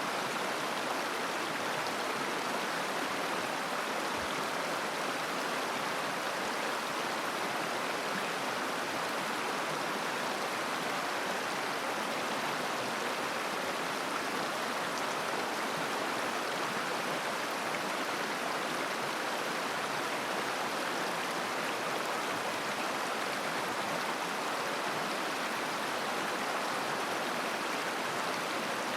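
River water flowing and babbling over stones, a steady rushing sound.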